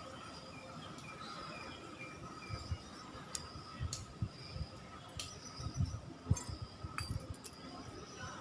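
Faint bird chirps, with irregular low thumps and a few sharp clicks from about two and a half seconds in.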